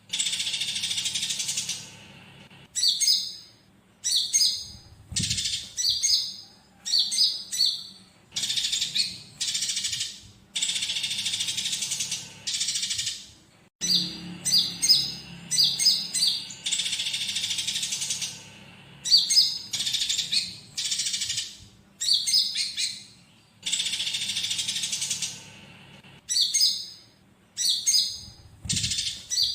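Recorded bird song of sooty-headed bulbul (konin) filled in with the chatter of fighting Eurasian tree sparrows: quick phrases of sharp, high chirps alternate with harsh, dense chattering runs of about one and a half to two seconds each, over and over.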